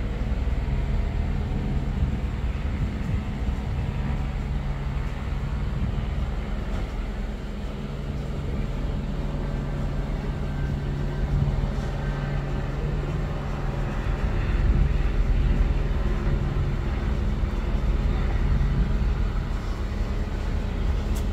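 Idling vehicle engine, a steady low hum, with faint voices in the background.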